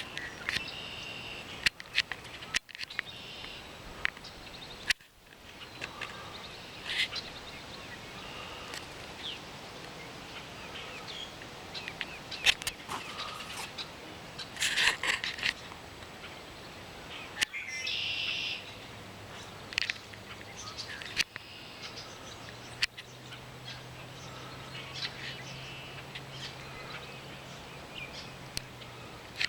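Wild birds calling and chirping in scattered short phrases, with a few sharp clicks. A faint low steady hum comes in a little past halfway.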